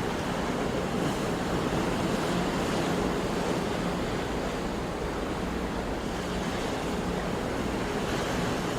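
Sea surf washing continuously, a steady rush of waves with gentle swells in level.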